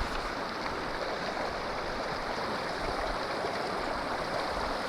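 Steady rush of a mountain stream's running water, even throughout with no separate splashes or knocks.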